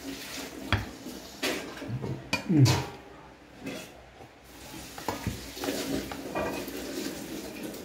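Cutlery clinking and scraping against a plate while eating, in a handful of separate knocks with quieter scraping between.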